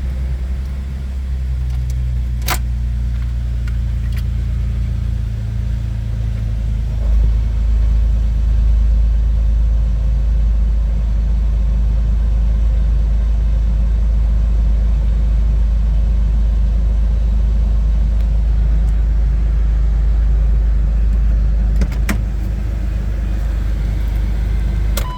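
2004 Jeep Wrangler X's 4.0-litre straight-six idling at the exhaust just after a cold start, after sitting for a couple of months: a steady low exhaust rumble. The idle changes about seven seconds in and then holds even, with a couple of faint sharp clicks.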